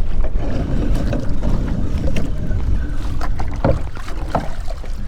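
Strong wind buffeting the microphone as a steady low rumble, with scattered short splashes and knocks of choppy water against a kayak.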